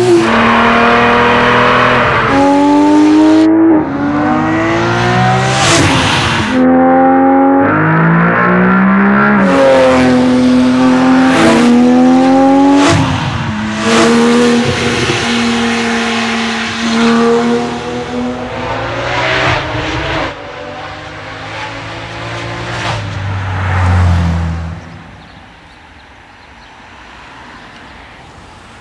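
Porsche 997 GT3's flat-six engine through an Akrapovic exhaust, accelerating hard with the pitch climbing and dropping at each of several gear changes. It then settles and eases off, gives one last loud rev, and fades to a quiet steady hum near the end.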